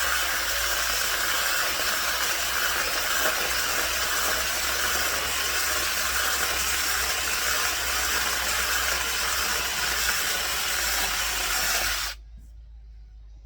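A steady, loud hiss like rushing air or spray, with no engine note in it, cutting off suddenly about twelve seconds in.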